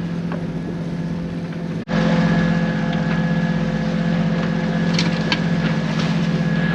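A sailboat's auxiliary engine running steadily under way as the boat motors out along a harbour channel, a constant drone. About two seconds in there is a sudden break, after which it runs louder, with a few light clicks near the end.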